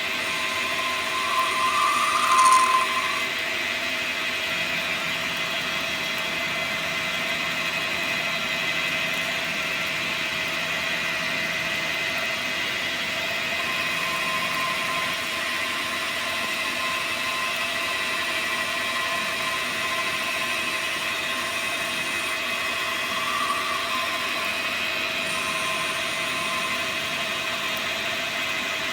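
Dyna Mechtronics DM3000 CNC lathe running, a steady whine of several held tones from the spindle and drives, with a brief louder squeal of the tool cutting about two seconds in and a shorter one later.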